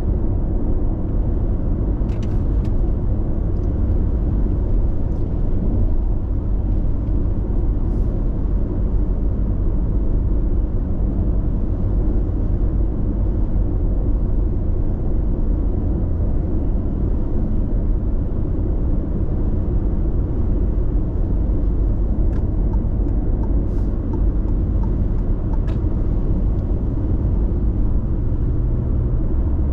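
Steady road and tyre noise heard inside a car cruising on an expressway: a low rumble, with a few faint ticks.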